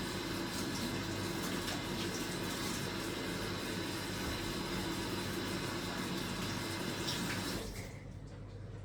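Water running steadily from a tap, shut off abruptly near the end.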